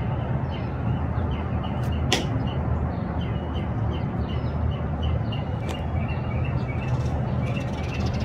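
Small birds chirping over and over over a steady low rumble, with one sharp click about two seconds in.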